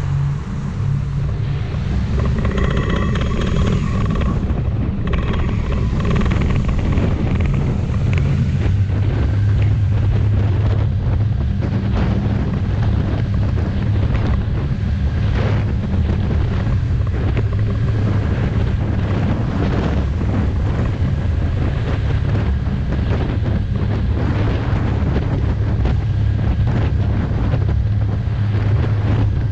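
Ford TW tractor's diesel engine running steadily with a deep, even hum, with a brief higher whine a few seconds in.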